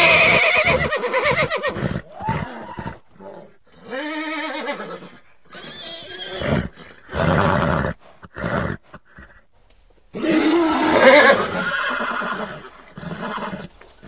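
Horses neighing, several whinnies with pauses between them, the loudest about ten to twelve seconds in.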